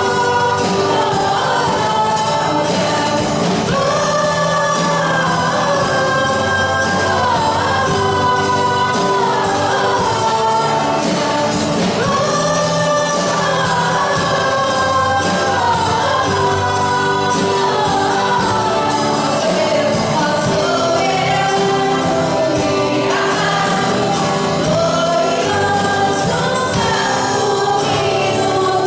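Church worship team singing a Portuguese gospel worship song, several voices together in long, gliding sung lines over a band accompaniment.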